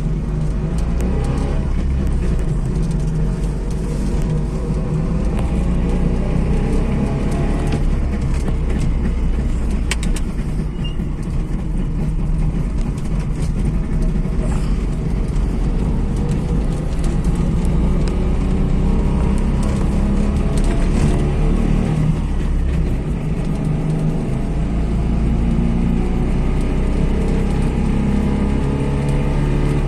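Trabant 601's air-cooled two-stroke twin-cylinder engine running under way, its pitch slowly rising and falling with road speed. Scattered clicks and knocks ride over it, typical of the car jolting over a bumpy road.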